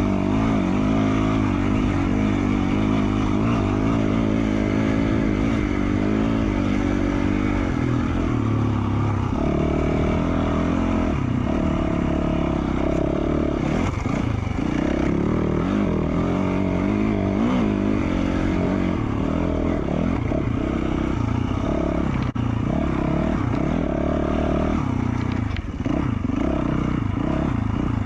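2020 Yamaha YZ450F's 450cc single-cylinder four-stroke engine running through an FMF Q4 slip-on exhaust, its pitch rising and falling with the throttle as the dirt bike is ridden, with a few brief chops of the throttle.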